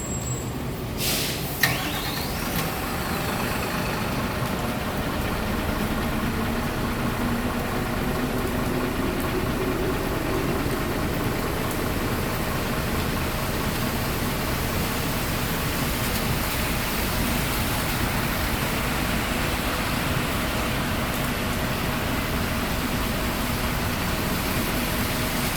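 Mitsubishi Fuso Aero Star city bus's six-cylinder turbo-diesel starting: a short burst and a sharp click about a second in as it catches, then the engine idles steadily, its idle speed shifting slightly a few seconds later.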